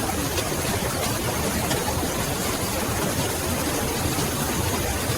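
Steady, even rushing noise with a low rumble beneath it, at a constant level throughout; no voices or music.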